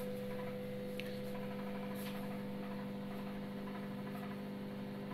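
DeLonghi extra-large microwave oven running at full power: a steady hum with a couple of faint ticks, quite noisy for a microwave.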